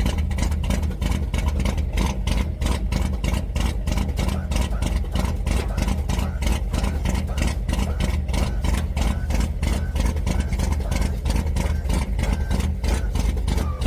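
Chevy small-block V8 in an Impala idling just after a cold start, with a quick steady pulsing beat.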